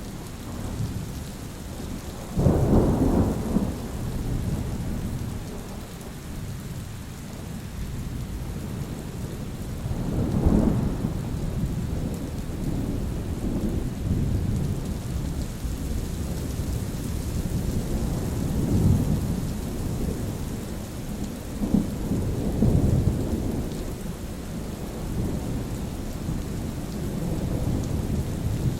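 Steady rain with rolling thunder: a sharp low crack about two and a half seconds in, then repeated rumbles swelling and fading through the rest.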